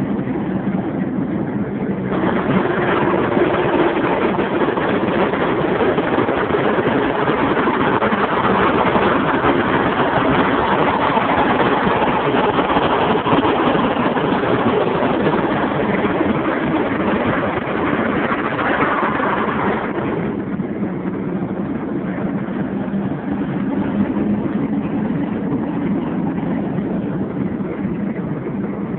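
Steady drone and road noise of a car travelling on a highway, heard from inside. From about two seconds in, a much louder rush of wind and road noise sets in, then cuts off abruptly near twenty seconds.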